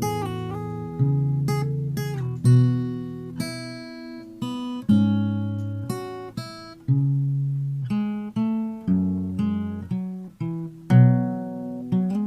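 Instrumental acoustic guitar music: plucked notes and chords that strike and ring out, changing every second or so.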